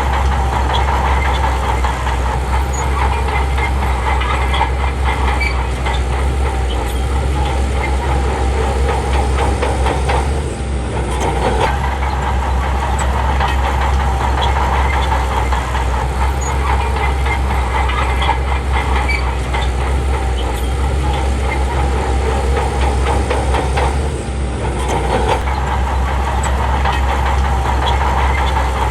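Shantui crawler bulldozer's diesel engine running steadily under work, with the clatter of its steel tracks. The engine sound drops off briefly twice, about ten seconds in and again near twenty-four seconds.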